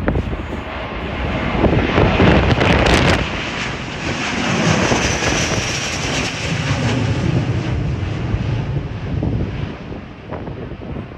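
Jet airliner departing at takeoff thrust: its engines swell to a peak about two to three seconds in, hold, then slowly fade away.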